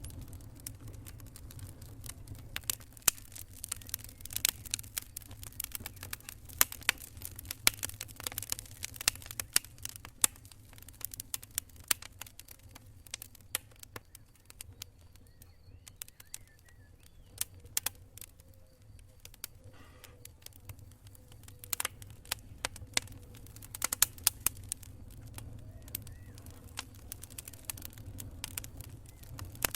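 Wood campfire crackling: irregular sharp pops and snaps, thinning out for a few seconds midway, over a steady low rumble.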